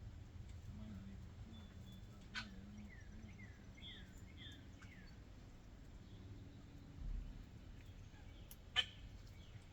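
Faint backyard bird calls: a quick run of short, falling chirps a few seconds in, over a low steady hum. Two sharp clicks, the louder near the end, and a dull low thump are also heard.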